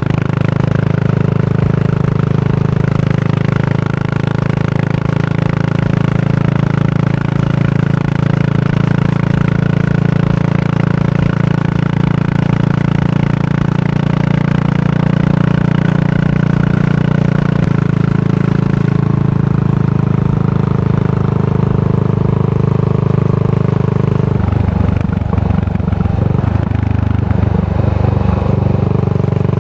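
Yamaha SR400's single-cylinder four-stroke engine running steadily through a Goods tapered-cone slip-on muffler, a deep exhaust note; a few seconds about 24 s in the note changes and wavers before it settles again.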